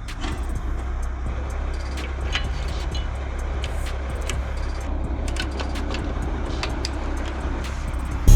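Converted fire truck driving on the road: a steady low engine drone under road noise, with scattered light clicks and rattles.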